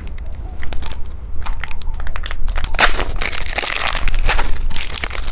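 Plastic candy wrapper crinkling and crackling as a packaged turtle gummy candy is handled, with sparse sharp crackles at first and a denser run of crackling from about three seconds in.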